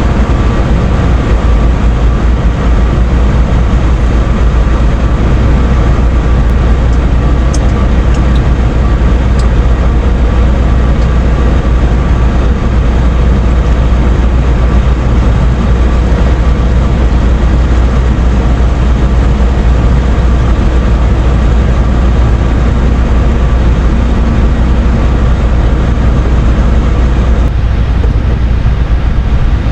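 Steady low rumble of an idling heavy engine, unbroken throughout, with a few faint ticks about eight seconds in.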